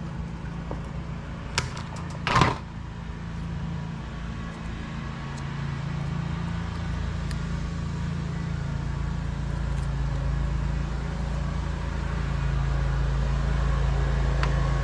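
Lawn mower engine running steadily, growing louder toward the end. A couple of sharp clicks about two seconds in.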